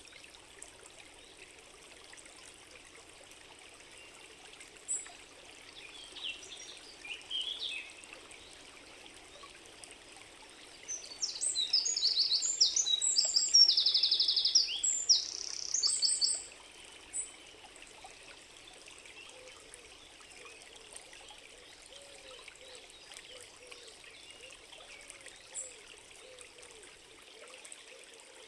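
Stream trickling steadily in a forest, with a songbird singing a loud, varied phrase that includes a fast trill for about five seconds near the middle. Fainter bird chirps come before it, and a soft low call repeats near the end.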